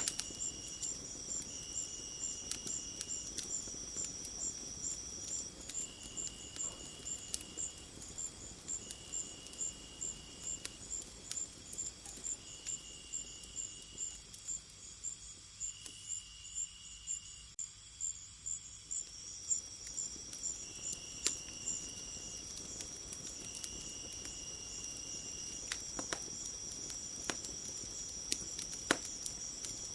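Insect chorus: crickets chirping in an even, pulsing rhythm about two and a half chirps a second, over a steady high trill that drops out for a while in the middle and returns, with shorter repeated buzzes beneath. A few sharp clicks stand out, most near the end.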